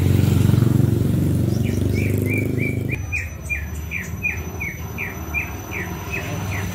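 A bird chirping over and over, short downward chirps about three a second, starting about two seconds in. Beneath it, a low rumble fades out about three seconds in.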